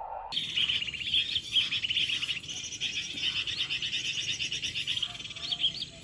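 Small birds chirping: a dense, continuous run of rapid high twittering notes that starts abruptly just after the beginning.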